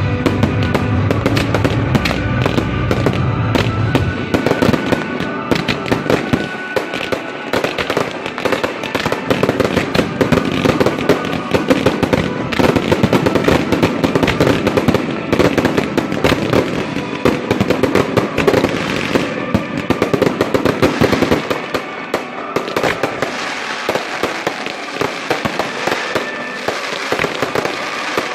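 Fireworks going off in a dense, continuous run of rapid cracks and pops, with music playing underneath.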